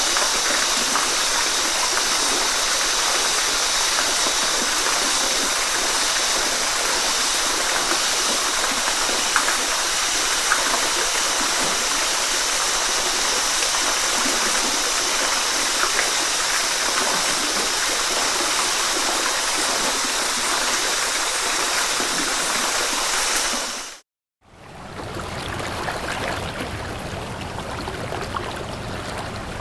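Flowing stream water running steadily, an even rush with small splashes and drips on top. About 24 s in it cuts out for a moment and a softer water recording with more low rumble takes over.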